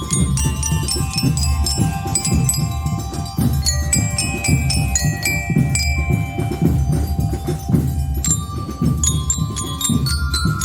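Marching band playing a medley led by bell lyres: struck metal bars ring out the melody over a steady drumbeat.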